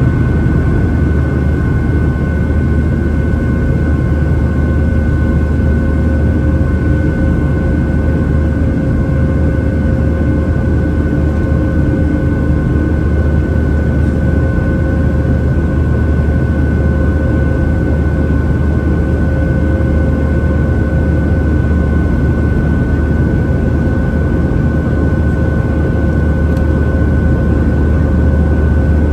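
Boeing 737-700 in flight heard from inside the passenger cabin: the steady drone of its CFM56 turbofan engines and rushing air, with a deep rumble underneath and a few faint steady whining tones above.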